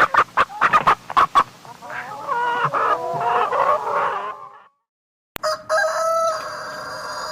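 Hen clucking rapidly, then cackling in wavering notes. After a short break with a click, another chicken call starts as one long held note.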